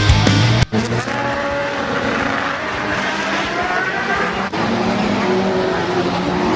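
Classic racing car engine accelerating hard, its pitch climbing steadily for a few seconds, then running on after a short break; a moment of music with a beat at the very start.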